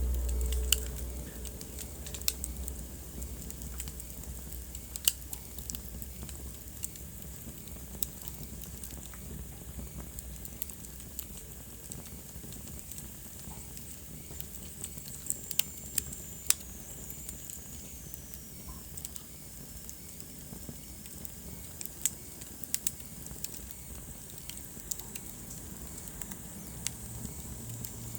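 Wood fire burning in a fireplace: irregular sharp crackles and pops over the low, steady rumble of the flames. Midway, a faint high hiss slides down in pitch.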